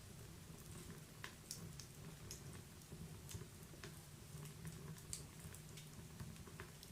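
Wood fire in a fireplace crackling softly, with scattered irregular small pops over a low steady rumble.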